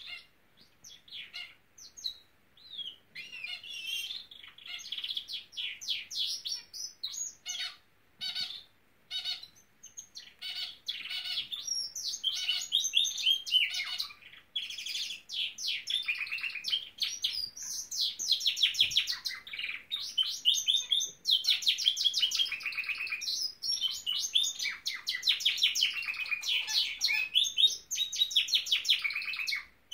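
Norwich canary singing: rapid trills and rolls, in short broken phrases at first, then running on almost without a break from about twelve seconds in.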